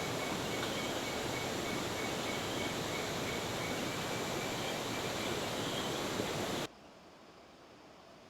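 Steady rush of flowing river water with a faint high chirping over it; it cuts off abruptly about two-thirds of the way through, leaving much quieter ambience.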